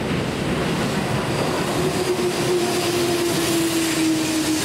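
Keihan electric train moving along the platform: a steady rumble of wheels on rails, with a motor whine that falls slowly in pitch from about two seconds in as the train slows.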